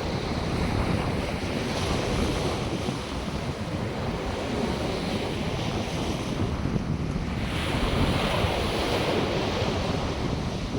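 North Sea surf breaking and washing on a sandy beach in a steady rushing wash that swells and ebbs as waves come in, with wind buffeting the microphone.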